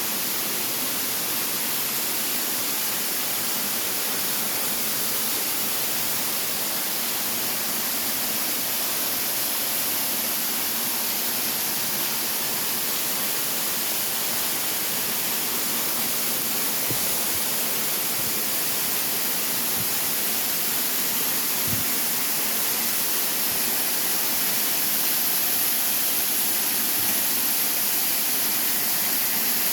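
Waterfall rushing: a steady, even roar of falling water, with a few faint low knocks about two-thirds of the way through.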